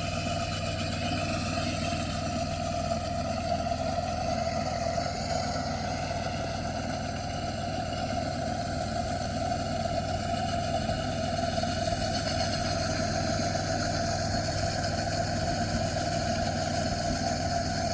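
An engine running steadily at a constant speed, with a strong steady hum.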